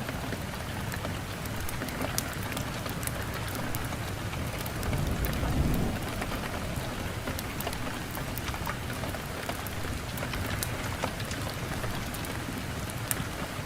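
Steady rain mixed with a wood fire crackling, sharp pops scattered throughout. A low rumble swells briefly about five seconds in.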